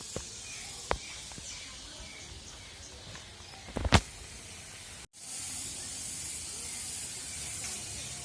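Outdoor ambience with faint, scattered bird chirps, a small knock about a second in and a loud sharp click about four seconds in. After a brief cut about five seconds in, a steady high hiss.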